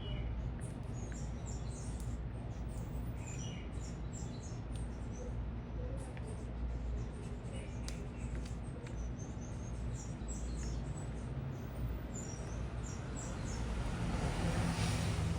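Small birds chirping, many short high-pitched chirps scattered throughout, over a steady low city hum. A broader rush of noise builds near the end.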